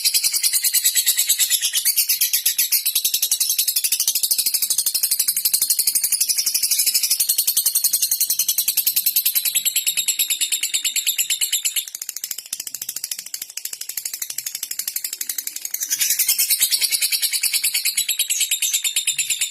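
Lovebird chattering in a long, very fast, high-pitched rattling trill, the continuous 'ngekek' type of song used to provoke a rival lovebird. It goes quieter for a few seconds about twelve seconds in, then comes back at full strength.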